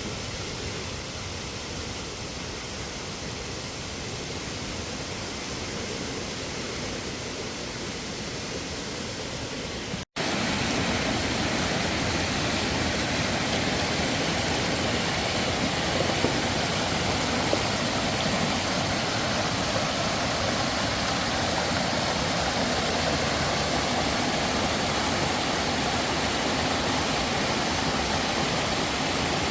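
Steady rushing water of a stream or waterfall, cutting off abruptly about ten seconds in and coming back louder.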